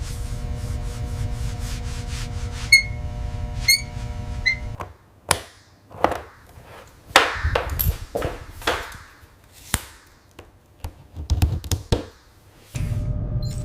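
A steady machine hum with fast rubbing strokes and three ringing metallic clinks. It cuts off abruptly, giving way to a run of irregular knocks and thuds. A steady hum returns near the end.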